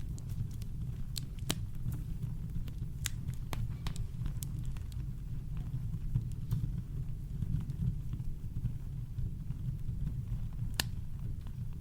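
Campfire crackling: sparse sharp pops and snaps over a steady deep rumble of brown noise, with one louder pop near the end.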